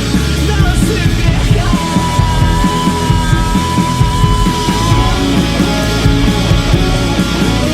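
Garage rock band playing: distorted electric guitars, bass and drums, with one long held guitar note in the middle.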